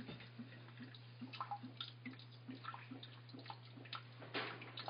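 Top-loading washing machine filling: water trickling and splashing into the drum, with a steady low hum and a brief surge of water near the end.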